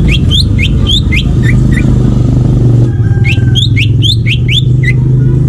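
Green leafbird (cucak ijo) singing two quick phrases of sharp, upward-sweeping whistled notes, six or seven notes each, with a pause of about a second between them. A steady low rumble runs underneath.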